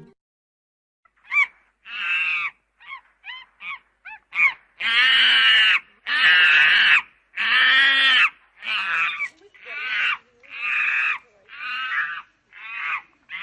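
A monkey calling in a long run of loud, harsh calls. After a short pause the calls start, swell into three long drawn-out calls of about a second each in the middle, then go on as shorter calls roughly one every three quarters of a second.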